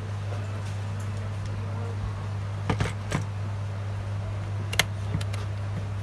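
Steady low electrical hum with a few short sharp clicks: two close together about halfway through and one sharper click a little later.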